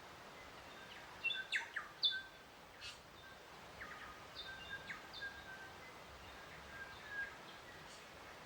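Birds singing: short high chirps and whistled notes, busiest a little over a second in and then scattered, over a faint steady background hiss.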